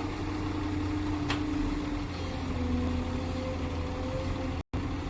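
Heavy diesel engine running steadily at a low, even speed, with a deep hum and a held tone that drifts slightly in pitch. There is a faint click about a second in, and the sound cuts out for an instant near the end.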